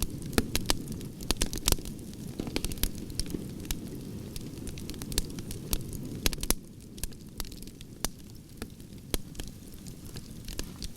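Burning log campfire crackling, with frequent irregular sharp pops and snaps over a steady low rush of flames that eases a little about halfway through.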